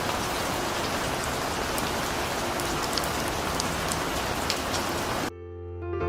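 Steady rain sound effect, a dense hiss dotted with sharp drop ticks, that cuts off suddenly about five seconds in, giving way to music.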